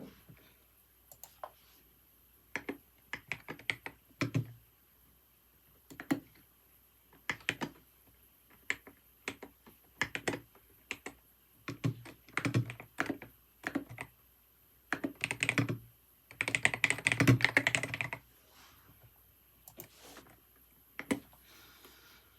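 Computer keyboard typing in irregular bursts of keystrokes separated by short pauses, with one dense, fast run of keys about three-quarters of the way through.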